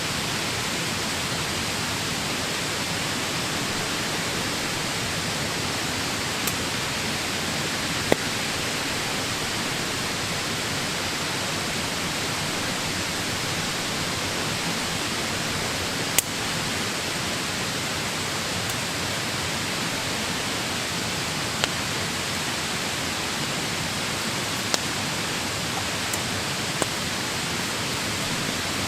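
Steady, even rushing noise with a few single sharp clicks scattered through it, the loudest about a third and halfway in.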